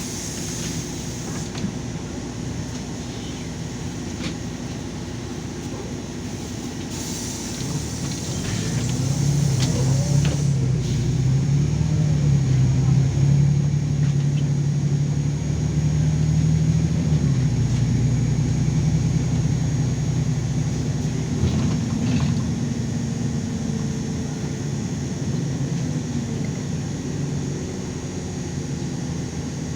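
LiAZ 5292 city bus heard from inside the cabin: a steady engine hum. About eight seconds in it grows louder as the bus pulls away, stays loud for several seconds, then eases off a little after about seventeen seconds.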